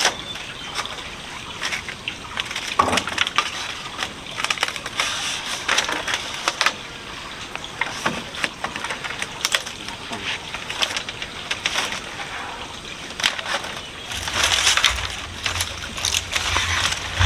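Irregular wooden knocks, cracks and scrapes of timber or bamboo pieces being worked and handled by hand, building a chicken coop.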